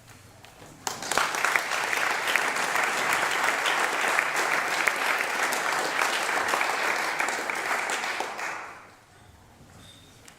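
Audience applauding at the end of a choir song, starting suddenly about a second in, holding steady and dying away near the end.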